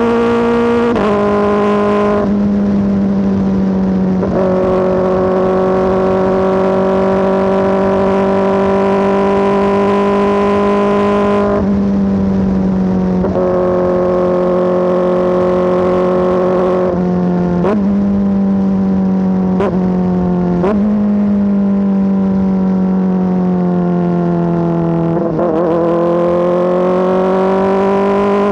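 Kawasaki ZX-4RR's 399 cc inline-four running loud through an SC-Project S1 exhaust under way. A steady high-revving note is broken every few seconds by sudden steps and short dips in pitch. Later it sags slowly and then climbs again near the end.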